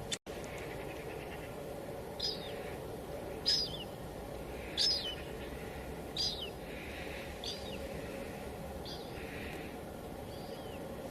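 Steady hiss of light drizzle. Over it, a bird repeats a short call that slides downward in pitch, about once every second and a half. There is a brief dropout just after the start.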